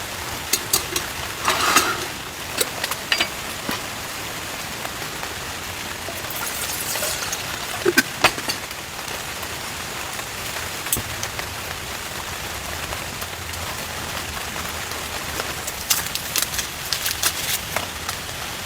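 Steady rain falling on the campsite shelter, with scattered sharp taps and knocks, in clusters near the start, about midway and near the end.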